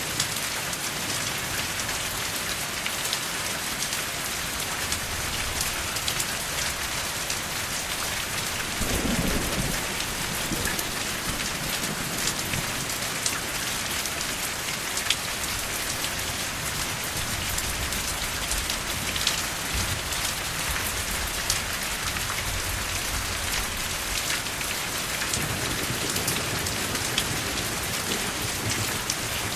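Steady rain falling on a hard surface, a dense patter with individual drops ticking sharply through it. About nine seconds in, a low rumble rises briefly under the rain.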